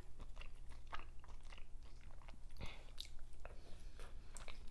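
Close-up chewing and crunching, with scattered small wet clicks and crackles, as of shell-on shrimp being bitten and chewed.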